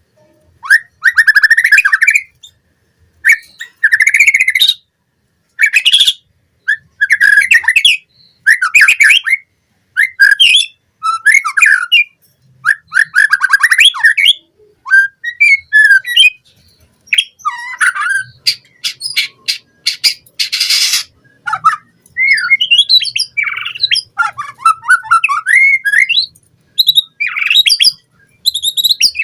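White-rumped shama (murai batu) singing: a long run of short, varied phrases of whistles, trills and chattering notes, separated by brief pauses. About two-thirds of the way through comes a single harsh, raspy note.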